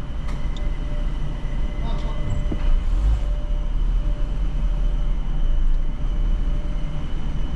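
Steady low engine rumble with faint, constant whining tones above it.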